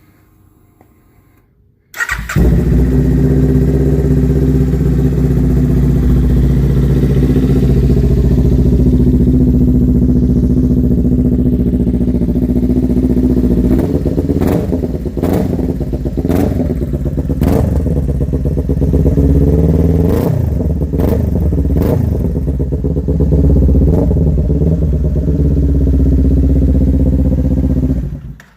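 2019 Kawasaki Ninja 400's parallel-twin engine, breathing through a Two Brothers Racing S1R full exhaust, starting up for the first time about two seconds in and idling steadily. From about halfway it is blipped through a series of short throttle revs, then settles back to idle and is shut off near the end.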